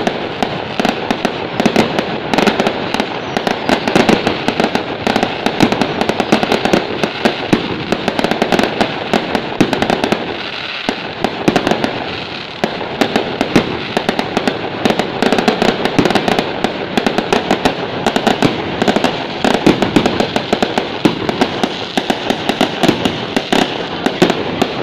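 Fireworks going off in a dense, continuous barrage of rapid bangs and crackles, easing briefly about ten seconds in before picking up again.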